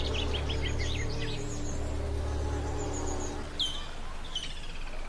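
Small birds chirping in quick runs of short high notes, with a few separate calls later on, over a low steady drone that fades out a little past halfway.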